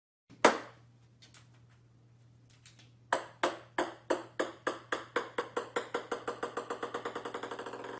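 A small ball bouncing on a hardwood floor. There is one hard bounce near the start and a few light taps, then from about three seconds in a long run of bounces that come faster and fainter as the ball settles.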